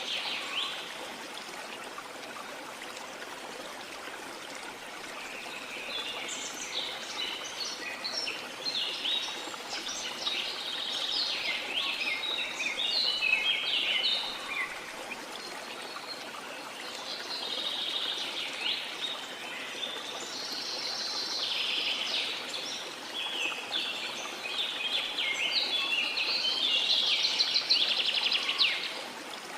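Rain forest ambience: birds sing in repeated bouts of quick chirps and trills over the steady rush of a flowing river.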